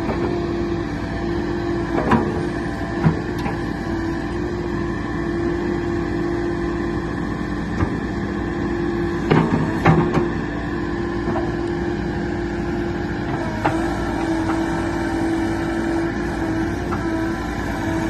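JCB 214 backhoe loader's diesel engine running steadily with a constant held tone as the backhoe is worked. A few short knocks come from the arm, the loudest pair about nine to ten seconds in. There is little rattle, a sign of a tight backhoe without worn pins and bushings.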